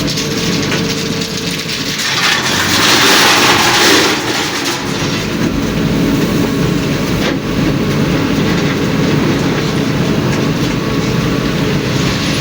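Heavy diesel tipper truck running with a steady engine note and a rattling body. A louder rushing noise swells about two seconds in and fades a couple of seconds later.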